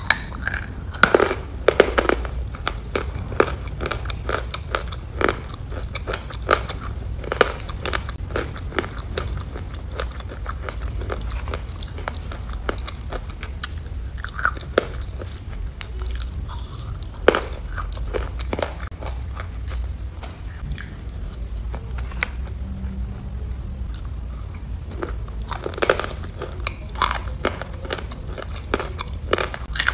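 Close-miked eating and chewing of soft food taken from a spoon, with many irregular short wet mouth clicks, over a steady low background hum.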